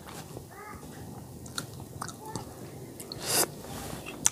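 A person chewing a mouthful of food, with scattered small clicks and taps, and a short breathy rush about three seconds in.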